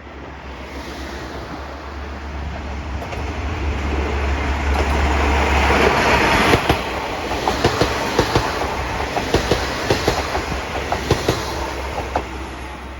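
A three-car train of KiHa 47 and KiHa 40 diesel railcars approaching and passing. The diesel engines' low rumble grows louder for about six seconds, then a run of wheel clicks over the rail joints follows as the cars go by, easing off near the end.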